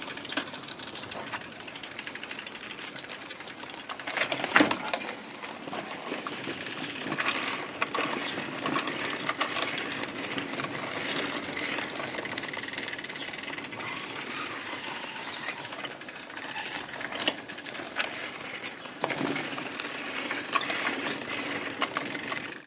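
Rattling and road noise from a bicycle being ridden, with wind rushing over the microphone and irregular sharp knocks and clicks, the loudest about four and a half seconds in.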